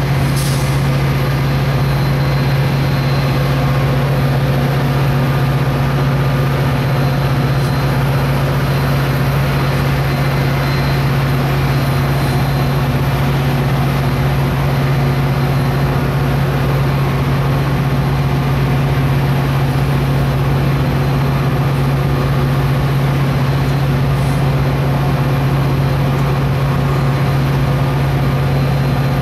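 Metra commuter train standing at the platform, giving off a loud, steady, unchanging drone.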